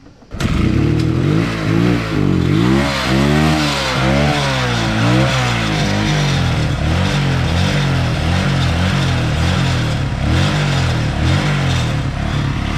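A dirt bike's engine catches abruptly and is blipped up and down several times over the next few seconds, then runs on at a steady fast idle.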